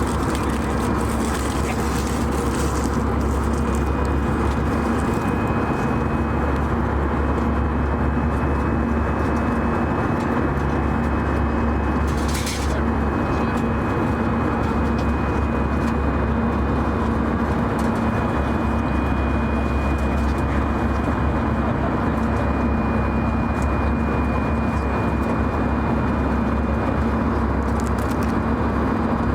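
Steady cabin drone of an Airbus A319 in flight: engine and air noise with a constant hum. A brief click about twelve seconds in.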